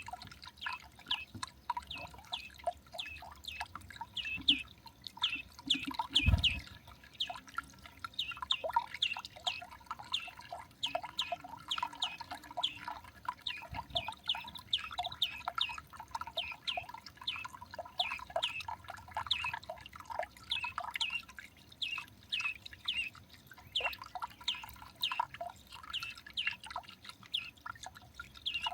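Many short, high chirps and ticks from small garden birds at a feeder, several a second and overlapping. A dull thump sounds about six seconds in.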